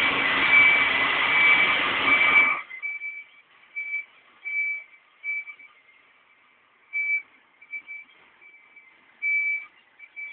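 A loud hiss for about two and a half seconds, then a truck's high-pitched reversing beeper sounding on and off at uneven intervals while the truck maneuvers.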